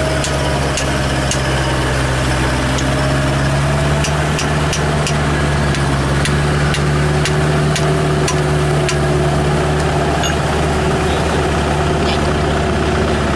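Tractor engine running steadily at a low, even speed, with light ticks about twice a second through the first part.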